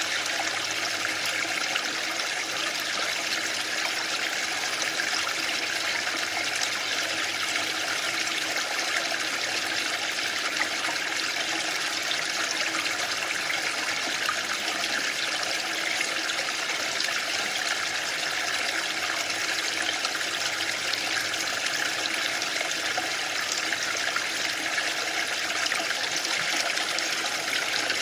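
Waterfall: water falling and splashing in a steady, unbroken rush with no swells or pauses.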